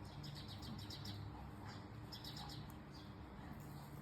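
A small bird chirping in three quick runs of short, high notes.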